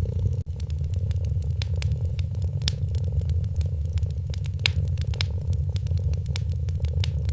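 A cat purring steadily, a low continuous rumble, under the irregular crackles and pops of a wood fire. The sound cuts out for an instant about half a second in.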